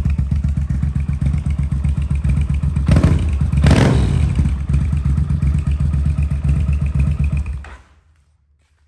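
Yamaha TDM 850 parallel-twin engine running loud through a near straight-pipe exhaust with the decibel killer removed. It is revved once about three seconds in, settles back to a steady run, then is switched off near the end.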